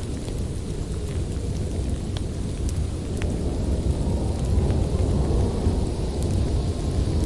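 Storm wind as a deep, steady rumble, swelling a little about halfway through, with scattered sharp crackles and pops from a wood fire.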